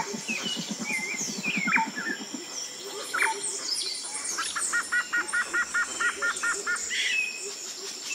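Several birds calling and chirping over a steady high insect-like tone. In the middle one bird repeats a short double note about four times a second, and a fast low pulsing sounds in the first two seconds.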